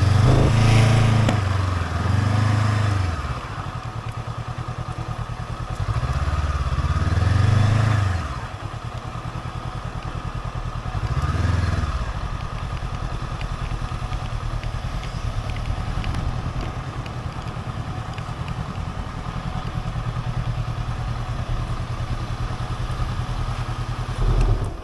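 Motorcycle engine revving up and back down in several short swells, then running steadily at an even pitch.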